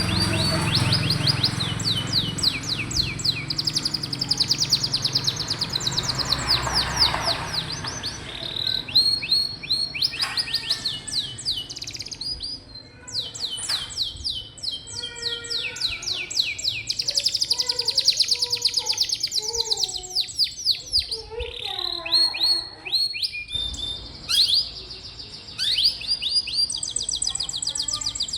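Domestic canary singing: long, fast trills of rapidly repeated notes that switch from one tour to the next, high and clear, with brief pauses between phrases.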